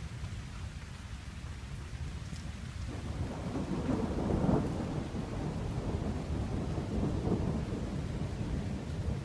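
Thunder rumbling over rain: a long roll builds about three seconds in, peaks a second or so later and keeps rolling with uneven swells.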